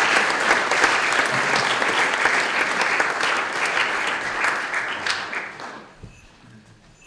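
Audience applauding, the clapping fading out about five to six seconds in.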